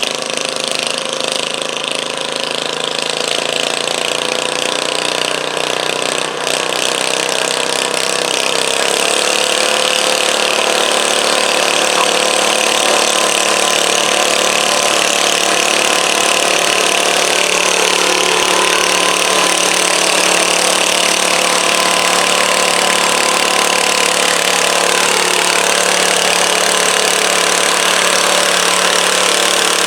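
Garden tractor engine running steadily, getting a little louder with a higher, steadier note from about nine seconds in.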